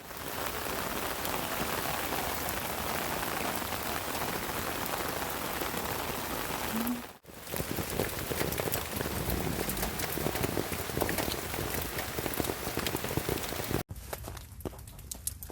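Steady rain falling on a camping tarp, a dense hiss of many small drop impacts on the fabric. It breaks off briefly about halfway through and near the end, then continues more softly.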